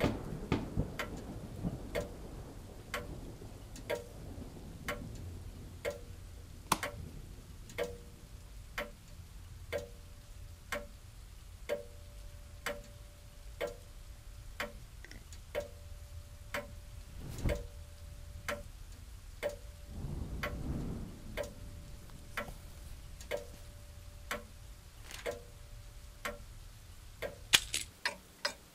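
Clock ticking steadily, about one tick a second, quickening to about two a second near the end.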